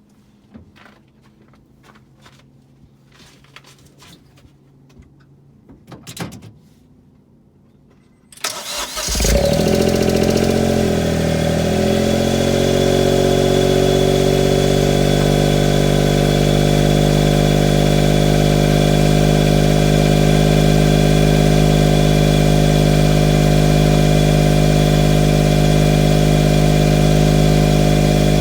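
A few faint clicks and small handling noises, then about eight seconds in the Honda S660's 660 cc turbocharged three-cylinder is started cold at about minus 8 °C: it catches at once, flares and dips in pitch, and settles into a loud, steady fast idle through the HKS Hyper Spec-L II aftermarket muffler.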